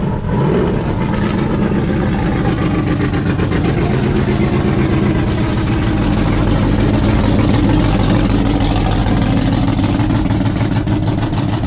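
A car engine idling steadily, close and loud, with an even low firing pulse.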